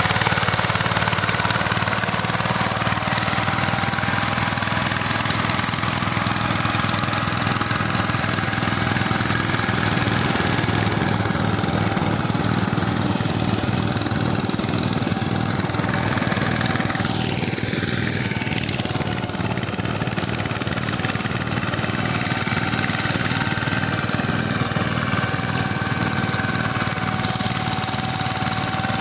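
Tractor diesel engine running steadily under working load, with a faint steady whine over it.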